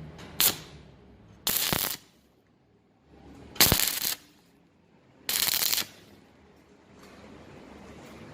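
Electric arc welder making four short tack welds on steel: a brief crackle, then three half-second bursts of arc crackle that start and stop sharply. These are light tacks holding the lock's fitting parts on the iron door temporarily.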